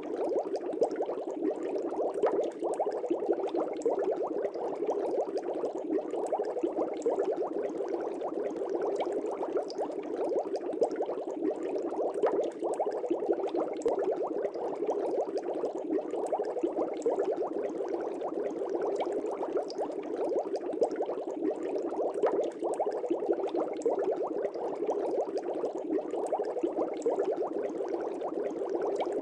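Steady, continuous bubbling of air rising through aquarium water, a dense stream of small bubbles with fine crackles and no pause.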